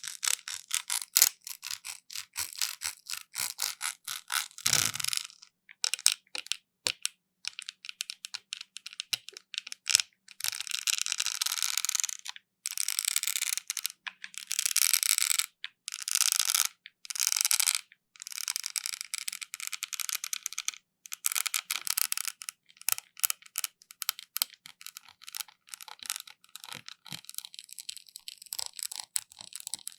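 Close-miked ASMR trigger sounds: quick dry clicks and taps in the first seconds, then long scratchy, hissing rubbing strokes, each a second or two long, broken up by more clicks.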